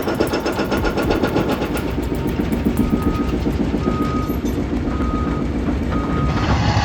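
Heavy construction machinery's diesel engine running with a fast, even pulsing. Four short, single-pitch beeps of a reversing alarm sound about a second apart midway through. Near the end the engine sound changes abruptly to a deeper one.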